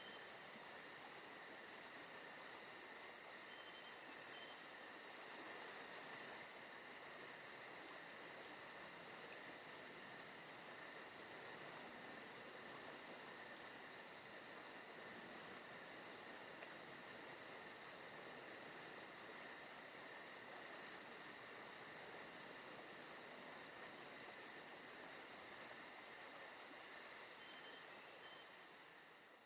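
Forest ambience of crickets and other insects trilling steadily, with a rapid, even high-pitched pulsing chirr and a few faint short chirps; it fades down near the end.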